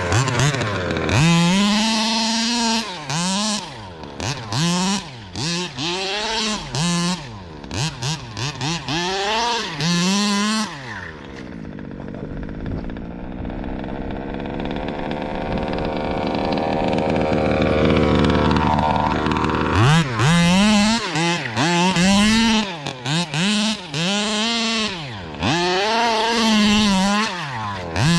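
Zenoah G320RC two-stroke engine of a 1/5-scale RC buggy, revved in quick throttle blips, rising and falling about once a second. In the middle is a longer, steadier stretch whose pitch sweeps up and down.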